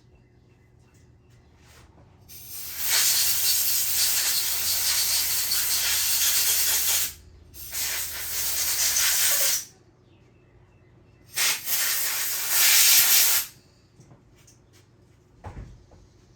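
Compressed-air blow gun blowing off a freshly cleaned carburetor part in three long blasts of hissing air. A short low thump comes near the end.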